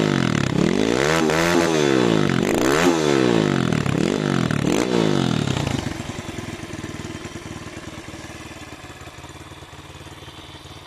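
Apollo RXF 150 pit bike's single-cylinder four-stroke engine revved up and down several times in quick succession, then dropping back to a steady idle about six seconds in and fading.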